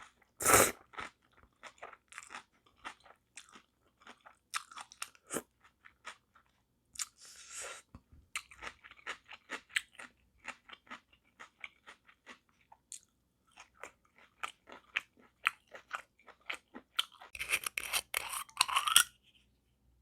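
Close-miked mouth sounds of eating spicy whelk bibim noodles: chewing with many short wet clicks and smacks, a louder one about half a second in and a dense cluster near the end.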